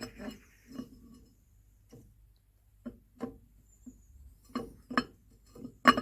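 Irregular knocks and clicks of metal brake parts being handled and tried in place by hand, a dozen or so short strikes with the loudest near the end.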